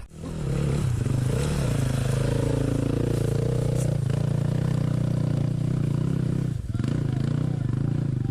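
Dirt bike engine pulling away and running steadily under throttle, with a brief drop in engine speed about six and a half seconds in.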